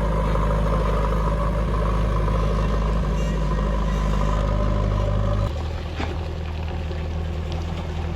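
JCB 3DX backhoe loader's diesel engine running steadily with a low hum. About five and a half seconds in, the sound changes abruptly to a quieter, different engine note, with a few faint clicks after it.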